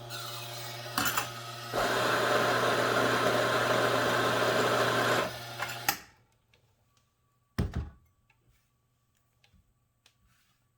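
La Spaziale Vivaldi II espresso machine running: its vibratory pump hums steadily, joined for about three and a half seconds by a loud, even rushing hiss. The machine stops about six seconds in, and a short knock follows a moment later.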